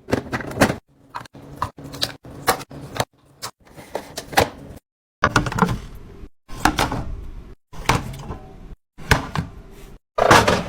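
Quick clicks, taps and clattering knocks of containers and groceries being handled and set down while a fridge is organized, broken into short pieces by abrupt cuts.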